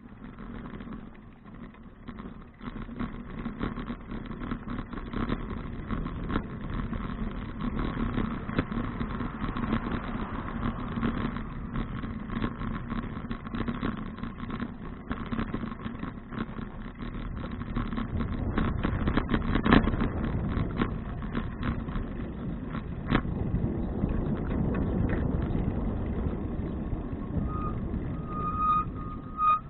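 Road vehicle noise: a steady rush and rumble, with two sharp knocks about two-thirds of the way through and a repeating high beep starting near the end.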